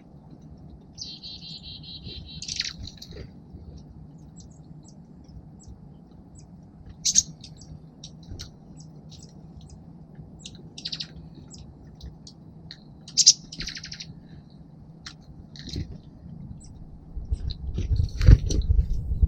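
Small songbirds calling at a feeder: a short rapid trill, then scattered sharp chips and tweets. A low rumble builds near the end.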